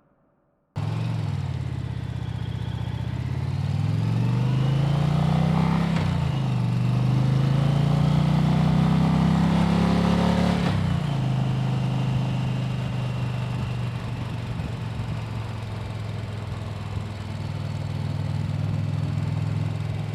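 Motorcycle engine cutting in abruptly, pulling up through the revs, dropping back at a gear change about six seconds in, climbing again, shifting once more near the middle, then running steadily at cruising speed.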